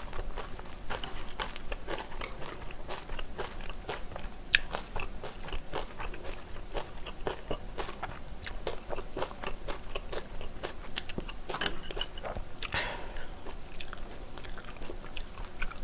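Close-miked chewing of a mouthful of bibimbap, with a steady run of small wet crunches and clicks. Chopsticks clink against the stainless steel bowl as more is picked up, with one sharper click near the twelve-second mark.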